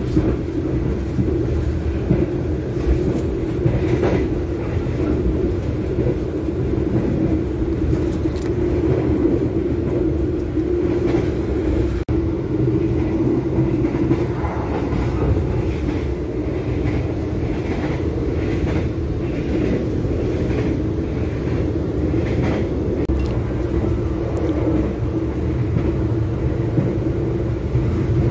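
Steady running rumble of a moving passenger train, heard from inside the carriage, with light clicks and rattles here and there.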